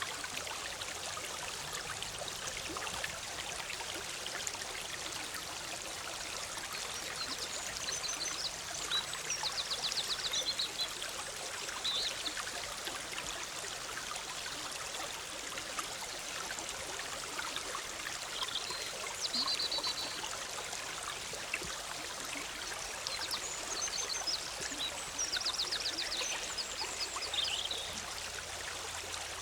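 Forest stream bubbling and splashing steadily over rocks, with a bird calling now and then in short, high, rapid trills.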